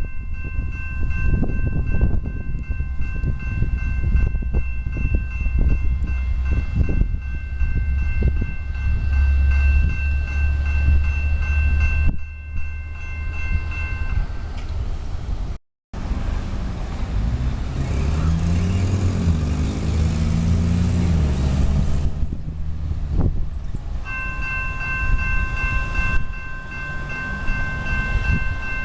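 Commuter train locomotive and passenger cars running close by, with a heavy low rumble and a steady high-pitched tone over it. The sound cuts off abruptly about halfway through. Another train follows, its engine note sliding up and down, and the steady high tone returns near the end.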